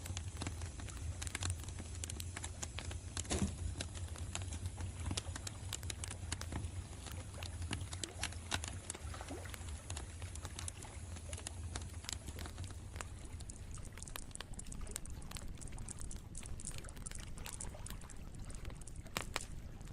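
Campfire crackling, with irregular sharp pops and snaps over a low steady rumble; one louder pop about three and a half seconds in.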